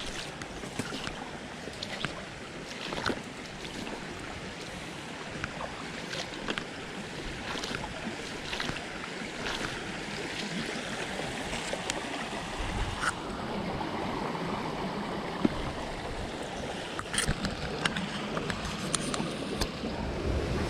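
Headwater stream water rushing steadily over rocks, with a few scattered sharp clicks and knocks.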